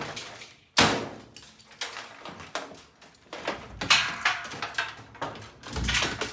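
Knocks and clanks of an old top-load washing machine being broken apart: one sharp hit about a second in that dies away, then several smaller knocks and scrapes.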